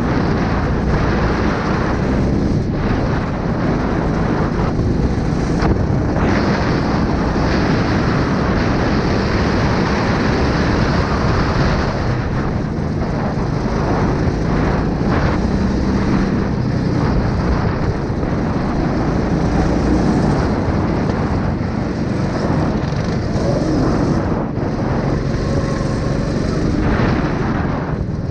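A 9 hp engine running steadily at a constant speed.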